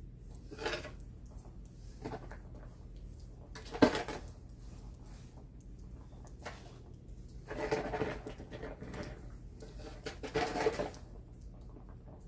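Snow shovel scraping in several short strokes, with one sharp knock about four seconds in.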